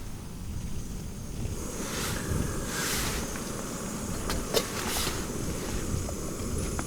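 Gusty wind buffeting the tent and the microphone in a steady low rumble, with a couple of brief rustles about two and three seconds in and two short clicks a little after the middle.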